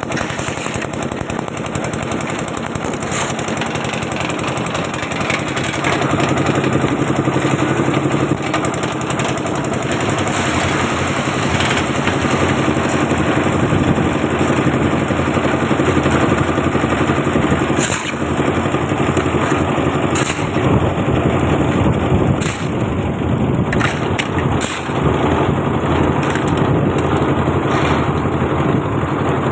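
Concrete mixer machine's engine running steadily in a continuous mechanical din, with a few sharp knocks in the second half.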